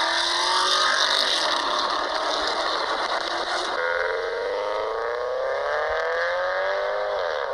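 Car engine and exhaust under acceleration over a loud hiss of wind and road noise. The engine note climbs steadily, then drops sharply near the end.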